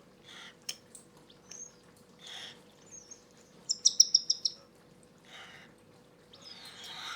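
Hand-fed cockatiel chicks calling: a quick run of about eight loud, high squeaks about four seconds in, between softer breathy rasps, the begging squeak of a chick's feeding reaction. A faint steady hum sits under it.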